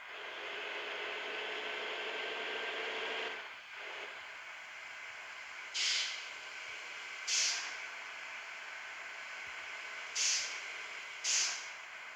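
Bus air brake system hissing. A steady hiss of air runs for about three seconds, then four short, sharp bursts of air are let out, two close together near the middle and two more near the end.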